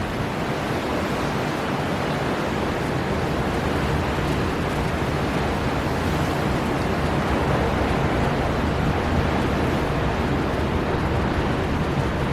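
Storm wind blowing hard over a rough sea, with waves and surf in a steady, unbroken noise that swells slightly over the first few seconds.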